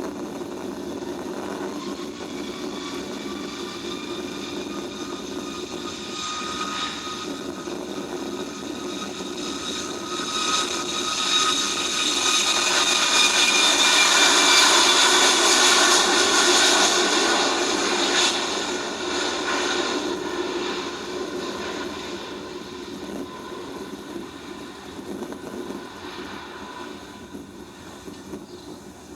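Jet airliner passing by: engine noise with a high whine builds to a peak about halfway through, then fades away.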